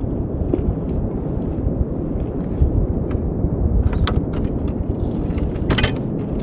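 Blizzard wind buffeting the microphone in a steady low rumble, with a few short sharp knocks about two-thirds of the way through and near the end.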